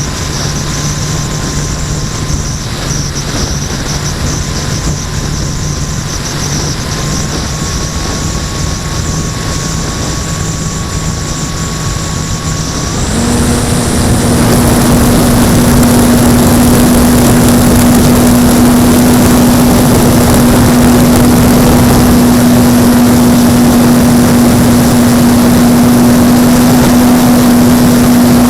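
Electric motor and propeller of an Apprentice S 15e RC trainer plane running steadily with wind noise. About halfway through the throttle goes up: the motor's hum steps up in pitch and gets much louder, with more wind rush.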